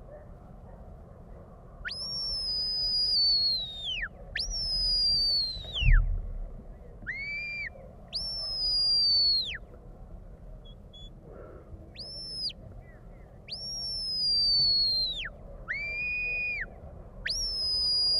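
Sheepdog handler's whistle commands to a working dog: a series of about eight high whistle blasts, most held for a second or two and dropping off in pitch at the end, a few shorter ones sounding two notes at once.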